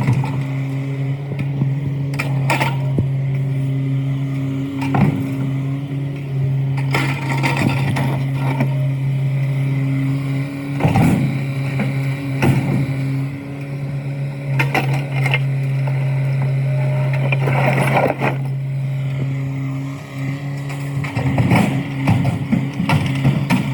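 A heavy machine's diesel engine running steadily while broken concrete is loaded, with repeated clanks and crashes every few seconds as the slabs are picked up and dropped.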